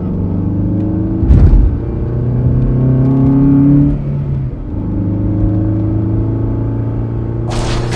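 Cartoon vehicle engine sound effect running steadily, revving up in pitch about two seconds in and dropping back around four seconds. A short thump comes about a second and a half in, and a burst of noise starts near the end.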